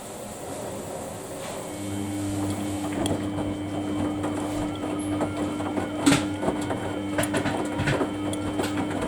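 Samsung washing machine running its Daily Wash 30 cycle: a motor starts about two seconds in with a steady low hum and tone. Irregular clicks and knocks from the drum run under it, with one louder knock about six seconds in.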